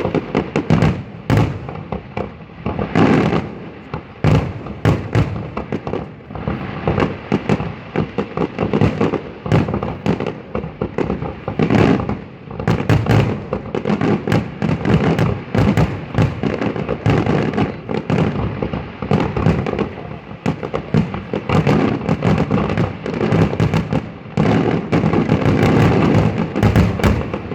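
Aerial fireworks display: a dense, unbroken barrage of shell bursts and crackle, with loud bangs following one another several times a second.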